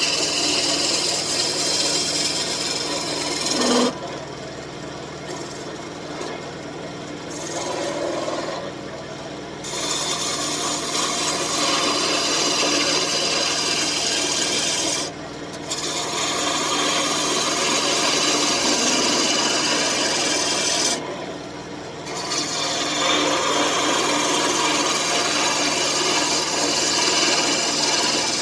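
A turning tool cutting a spinning birch blank on a wood lathe, a steady scraping hiss. It breaks off several times for a second or two as the tool lifts away from the wood, then resumes.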